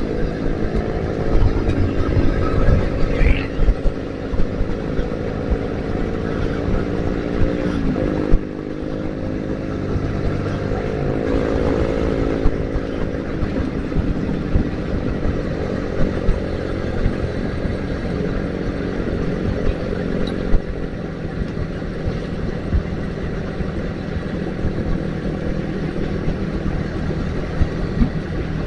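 Yamaha Vixion single-cylinder motorcycle engine running under way, heard from the rider's position. Its note dips about eight seconds in, then climbs again.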